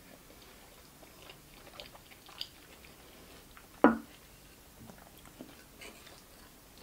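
Close-up mouth sounds of someone chewing pieces of juicy raw tomato, with faint soft wet clicks. One sharper, louder sound comes a little under four seconds in.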